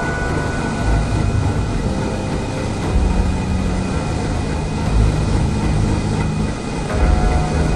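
Loud, steady machinery noise of a ship's engine room, with running engines giving a deep rumble that swells about every two seconds and a thin hum of tones above it.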